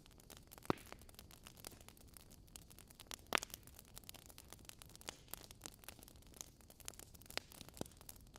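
Wood fire burning in a fireplace, crackling and popping irregularly over a soft hiss, with two sharper pops a little under a second in and about three and a half seconds in.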